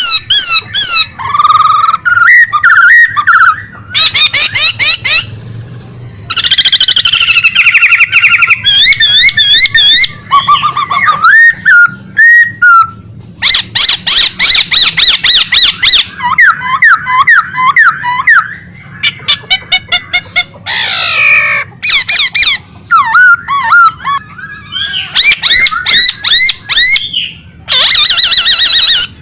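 A songbird singing loudly and energetically in a long run of rapid, varied phrases of fast trills, looping whistles and chattering notes, each phrase broken off by a short pause.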